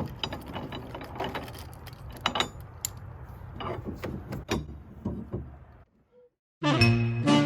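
Irregular clicks and light knocks over a low hum for about six seconds, then a brief silence, and swing music starts near the end.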